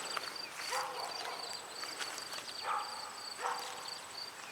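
A dog barking in the distance, three short barks spaced about a second apart, over a steady high trilling of insects.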